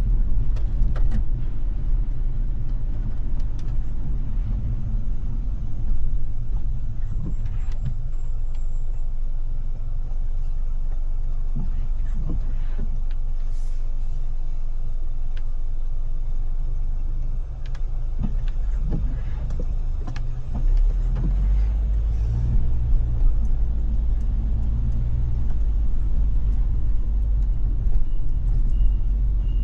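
Car driving in rain: a steady low rumble of engine and tyres on the road, heavier from about twenty seconds in, with scattered sharp taps and clicks.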